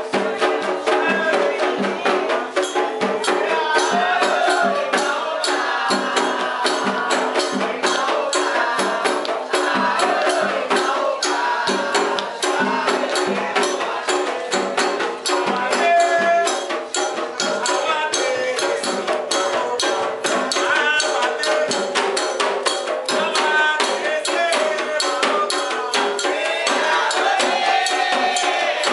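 Candomblé ritual music: voices singing over fast, steady percussion of drums with a rattling shaker or tambourine keeping the beat.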